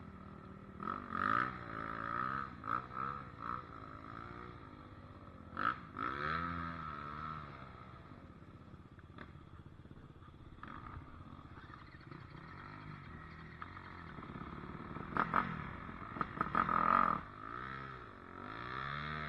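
Dirt bike engine revving up and down as the throttle is worked, its pitch rising and falling over and over, with several sharp knocks and rattles, a cluster of them near the end.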